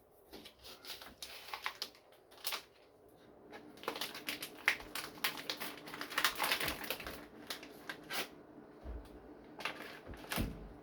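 A kitchen knife sawing through summer sausage and clicking against a cutting board in irregular short strokes.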